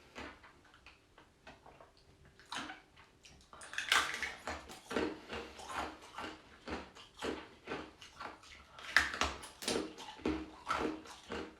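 Close-up crunching and chewing of ice: sparse cracks at first, then a dense run of loud, crackling bites and chews from about three and a half seconds in.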